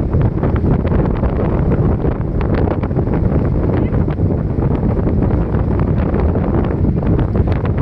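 Wind buffeting the microphone: a loud, steady low rumble with a constant flutter.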